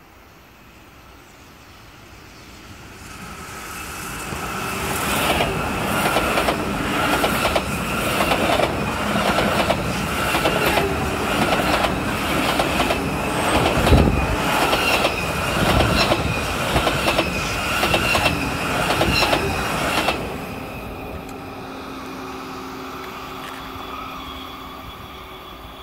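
SBB passenger train passing at speed alongside the platform, its wheels clacking in a fast run of clicks over a steady whine. The sound swells over the first few seconds and stops abruptly near the end as the last car clears, leaving a fainter steady hum.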